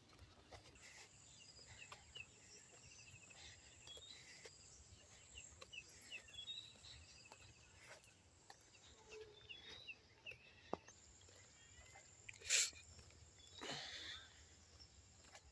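Faint evening outdoor ambience of chirping wildlife: a steady high-pitched hum, with short chirps and rapid trills from birds or insects. A sharp click about twelve and a half seconds in, followed by a brief rasp.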